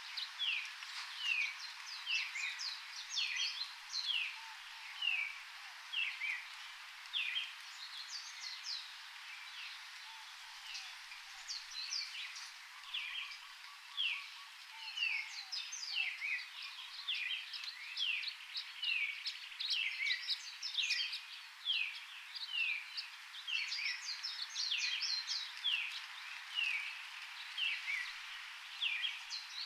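Songbirds chirping in a tropical forest: a dense, continuous run of short, high, downward-sliding chirps, several birds overlapping, over a steady background hiss.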